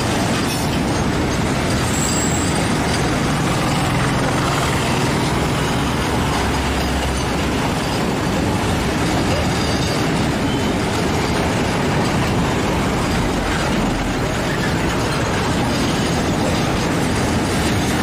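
A rake of BTPN oil tank wagons rolling past: a steady rumble of steel wheels on the rails, with a couple of brief faint high wheel squeals in the first few seconds.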